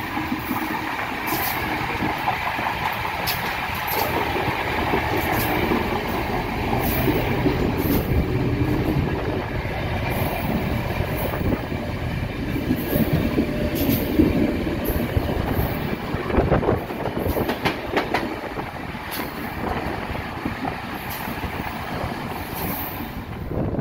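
Passenger train running along the track behind an EMD GL18B diesel locomotive: a steady rolling rumble with irregular sharp clacks of the wheels over the rails.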